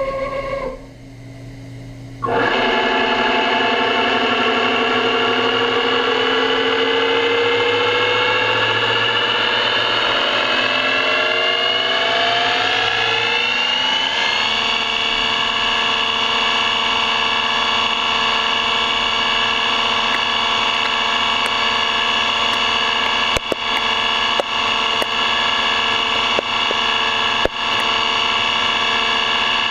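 CNC machine tool whining as it cuts metal. The whine rises steadily in pitch for about twelve seconds, then holds steady, with a few sharp clicks near the end.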